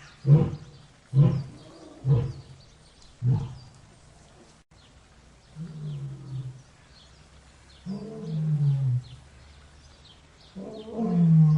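Lion roaring: a series of four short, deep grunts about a second apart fades out, then longer, deeper moaning calls follow, and a loud full roar builds near the end.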